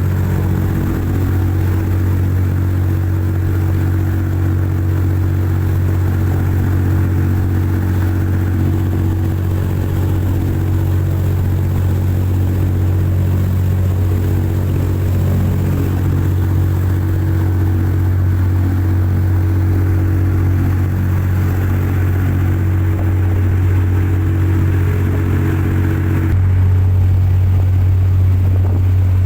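Boat engine running steadily at speed, a constant low drone with engine harmonics. Near the end it grows slightly louder and changes a little in tone.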